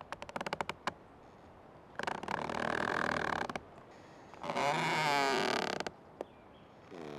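Old tree creaking: a quick run of ticks, then two long drawn-out creaks, the second louder and wavering in pitch, and another creak starting near the end.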